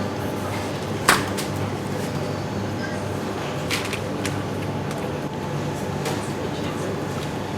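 A steady low rumble with one sharp clack about a second in, followed by a few lighter clicks.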